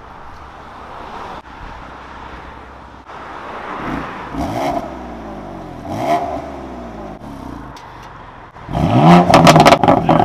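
Tuned BMW M4's twin-turbo inline-six being revved while parked: two moderate throttle blips, then from near the end much louder revs with rapid crackling pops from the exhaust.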